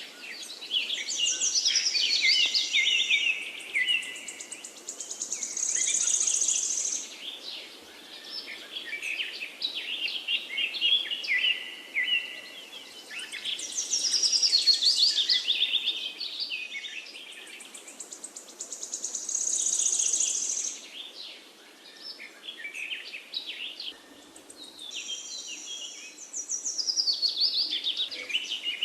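Songbirds singing in fast trills and chirps that swell and fade in waves every several seconds, over a faint steady background hiss.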